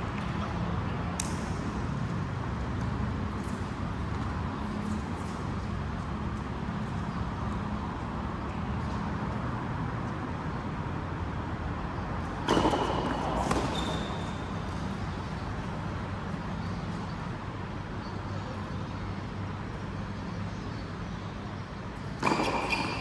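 Steady low hum and background noise, with a brief louder sound about halfway through and another near the end.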